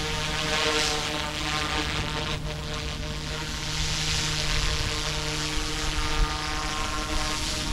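OMP Hobby M2 Evo electric RC helicopter in flight, its motor and rotor blades giving a steady whine with a constant pitch, over a rushing noise from high wind.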